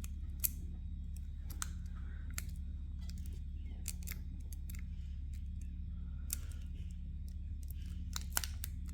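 Foil Pokémon card booster pack being picked and pulled at by hand, scattered small crinkles and clicks as it resists being torn open, over a steady low hum.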